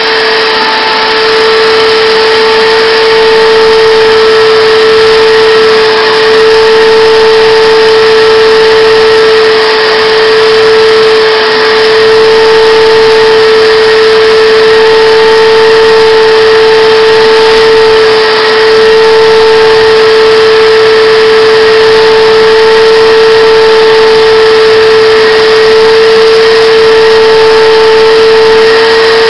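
Shop vac running steadily with a constant whine, drawing air through a homemade centrifugal (cyclone) dust separator.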